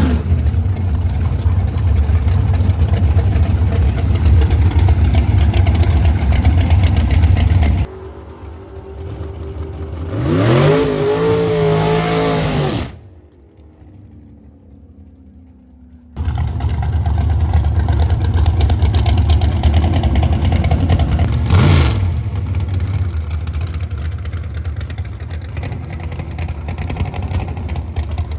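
Drag race car engines running loud and low-pitched. About eight seconds in the sound drops away, an engine revs up and back down, and a few seconds of quieter sound follow. Then the loud low running resumes.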